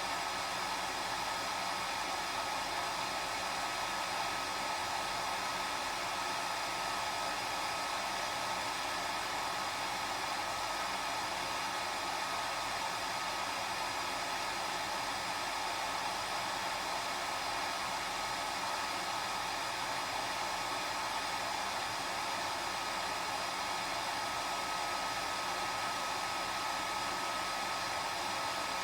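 Hair dryer running steadily: an even rush of air with a faint steady whine on top.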